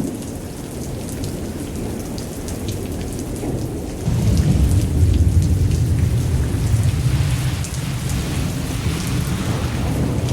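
Thunderstorm: steady rain with scattered drops, and a low roll of thunder that comes in about four seconds in and slowly dies away.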